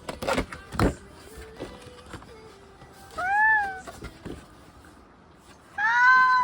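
Two cat meows about two and a half seconds apart, each rising then falling in pitch; the second is longer and louder. A few sharp clicks come in the first second.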